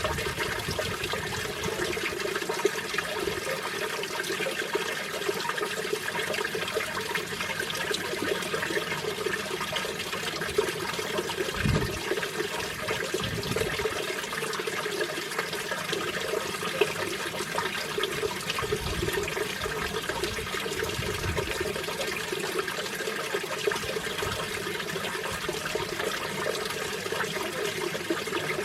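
Mountain valley stream rushing steadily over rocks, an even unbroken sound of moving water. A few brief low rumbles of wind come through about twelve seconds in and again around twenty seconds.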